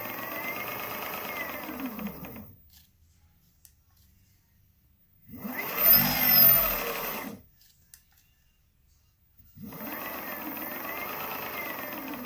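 The B10 Atom running with a pitch that rises and falls in slow sweeps and a fine rapid ticking over it. It stops twice, and a much louder run comes about six seconds in.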